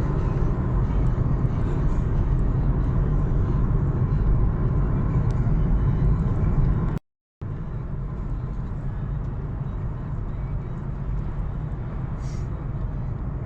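Steady low rumble of a car's road and engine noise heard inside the moving car, with a half-second gap about halfway through.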